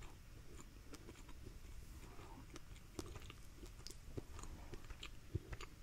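A person chewing a mouthful of soft cornbread, close to the microphone, with many faint short wet mouth clicks.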